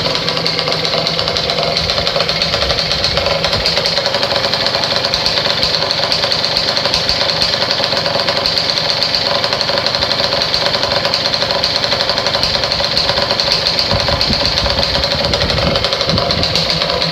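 Yamaha Grand Axis 100's two-stroke single-cylinder engine idling steadily through a WINDJAMMERS Euro racing expansion chamber, a fast, even pulsing beat.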